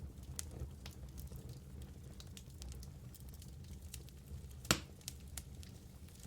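Wood fire burning in a fireplace: a low steady rumble with scattered small crackles and pops, and one sharp, louder crack near the end.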